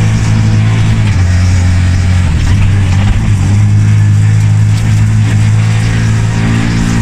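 Ford Fiesta rally car engine under load, a loud and mostly steady note whose pitch steps once about a second in and shifts slightly again near the end.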